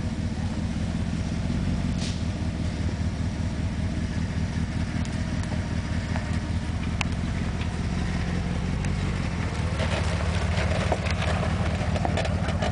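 Four-wheel-drive truck engine running with a steady low rumble, with a few scattered clicks and knocks.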